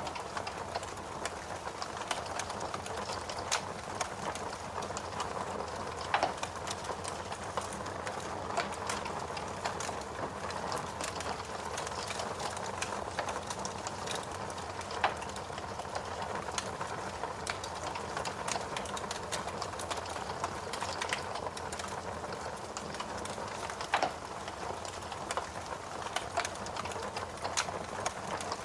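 Wood fire crackling in a fireplace over a steady hiss of rain, with frequent small crackles and a handful of louder pops.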